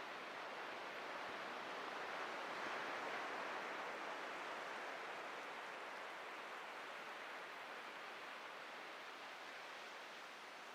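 Atlantic surf washing onto a beach: a soft, even rush of water noise that swells about two to three seconds in and then slowly fades as the wave draws back.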